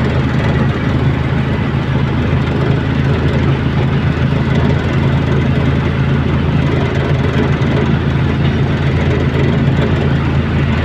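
A loud, steady engine drone with a deep hum that does not change.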